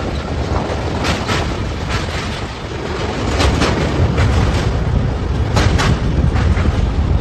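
Puri–Howrah Shatabdi Express passenger train crossing a river bridge, heard from beside the coach: a steady low rumble with wheel clicks over the rail joints, mostly in quick pairs.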